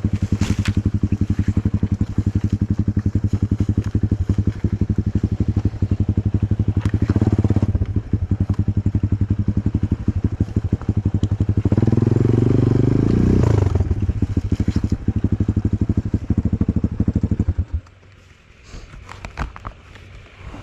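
Enduro motorcycle engine running at low revs with an even pulsing beat. It is revved briefly about a third of the way in and again, longer, past the middle, then shuts off suddenly near the end, leaving a few faint clicks and creaks.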